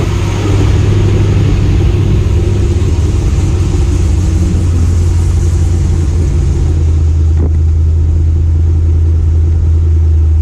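C5 Corvette's 5.7-litre V8 droning steadily at a constant cruise, with road noise over it.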